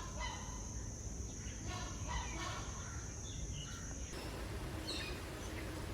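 Scattered calls and chirps of mixed birds over a steady high-pitched insect drone, which stops abruptly about four seconds in.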